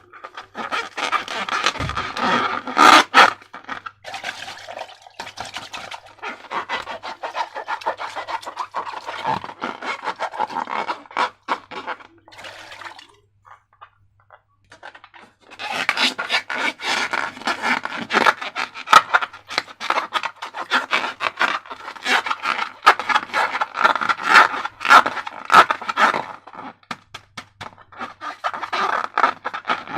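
Slime being squished and worked by hand, a dense wet crackling and clicking, with a pause of about two seconds partway through.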